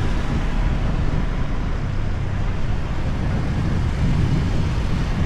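Steady, loud motorbike riding noise in city traffic: engines and rushing air on the microphone, with no single event standing out.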